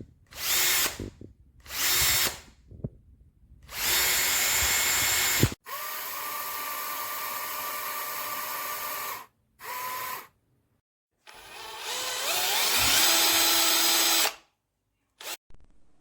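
Bosch EasyImpact 18V-38 cordless hammer drill triggered in three short bursts, then run longer, first with a rougher noisy sound and then at a steady whine. After another short burst it speeds up with a rising whine and stops, with a brief blip near the end.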